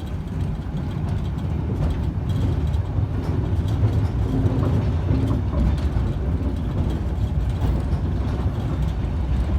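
Old excursion train running along the track, a steady low rumble of the wheels and cars in motion.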